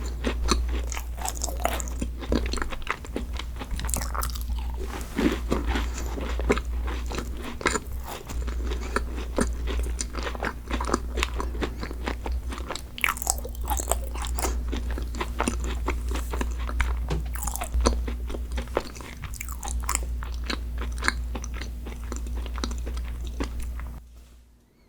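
Close-miked crunchy bites and chewing of a dessert: dense crisp crackles that go on steadily, over a low steady hum, and stop just before the end.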